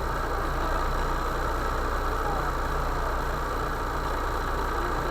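Vehicle engine running steadily with a low drone that holds the same pitch throughout.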